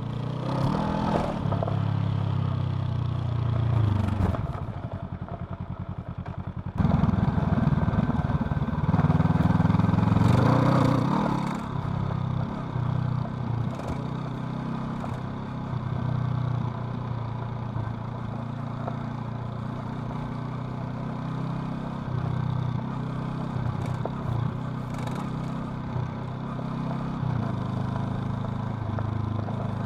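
Honda CL500's 471 cc parallel-twin engine running under a rider, dropping to a low, even putter around four seconds in, then opening up sharply near seven seconds and pulling hard for a few seconds before settling to a steady cruise.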